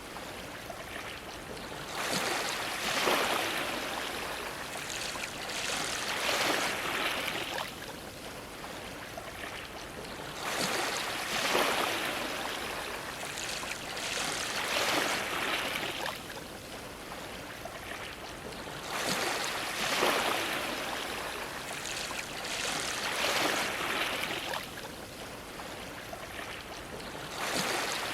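Ocean waves washing and splashing against a dock, swelling into louder surges every few seconds and easing back between them.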